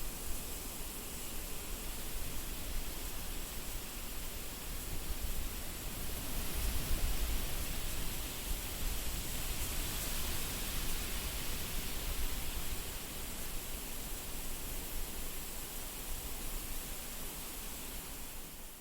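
Wind blowing steadily in gusts, with a deep rumble of wind buffeting the microphone, swelling about a third of the way in before easing.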